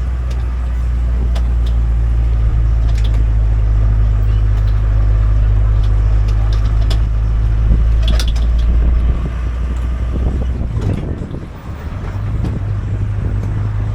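Tourist road train on the move, its engine a steady low rumble with scattered rattles and clicks from the carriage. The engine note drops briefly about eleven seconds in, then picks up again.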